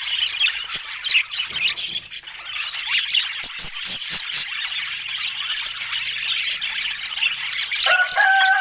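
Budgerigar chattering and warbling in a dense stream of chirps, with scattered sharp clicks; a long squealing tone starts near the end.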